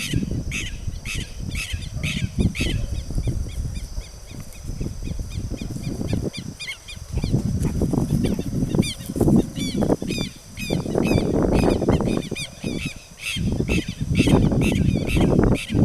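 Wild birds calling: a short note repeated about three times a second, with a run of quick rising chirps in the middle. A strong uneven low rumble lies under the calls.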